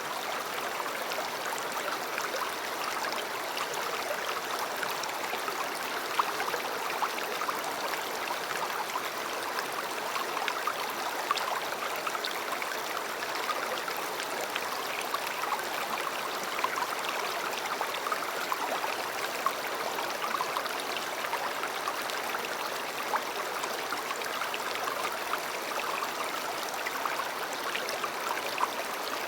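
River water flowing steadily over stones, a constant rushing babble dotted with small splashes and gurgles.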